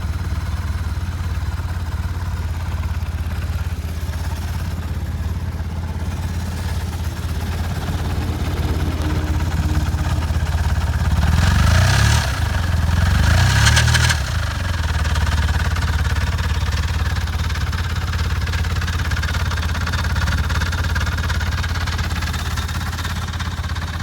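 BMW R1150RS boxer-twin engine running through a Sasaki Sports aftermarket muffler, idling with a steady low exhaust note. The throttle is blipped twice about halfway through, and the engine settles back to idle.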